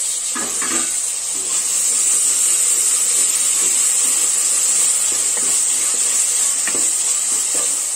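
Chopped tomatoes sizzling steadily in hot oil with fried shallots in an aluminium pressure cooker, with a wooden spatula stirring through them.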